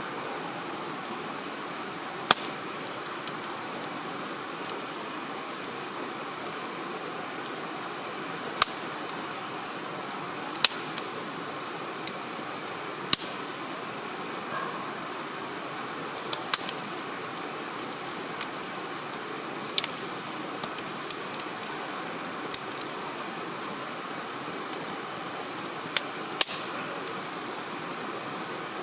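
Wood campfire crackling: sharp, separate pops and snaps at irregular intervals over a steady background hiss.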